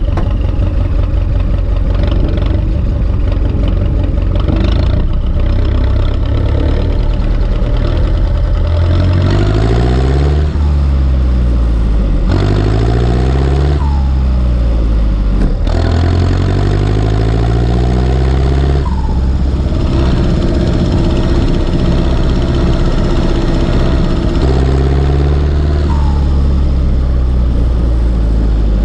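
Turbocharged four-cylinder diesel engine of an Ursus C-360 tractor running hard, its revs dropping and climbing back up several times.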